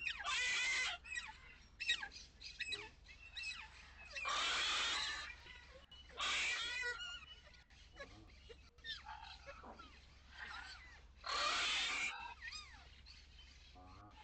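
Birds calling: four loud, harsh calls about a second long, with smaller chirps and whistles between them.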